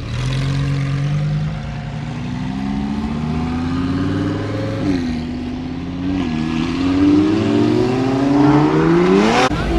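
A car engine accelerating hard, its pitch climbing, dropping back twice about five and six seconds in as it shifts gear, then rising steeply again. A sharp bang comes near the end.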